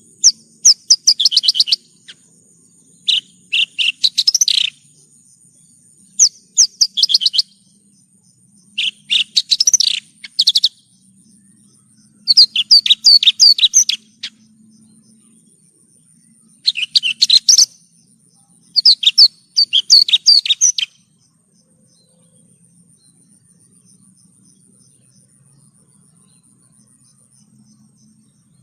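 Javan bush lark (branjangan) singing in short bursts of rapid, varied chirping notes, a phrase every couple of seconds, falling silent about 21 seconds in. A faint steady high whine, like an insect, runs underneath.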